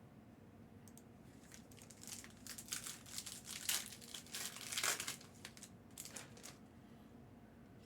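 Plastic card-pack wrapping crinkling and being torn, in a run of short crackles that starts about a second and a half in and stops near the end.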